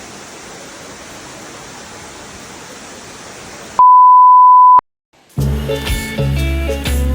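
Steady rushing noise of a waterfall, cut off about four seconds in by a loud, pure beep lasting about a second. After a brief silence, guitar-and-bass background music starts.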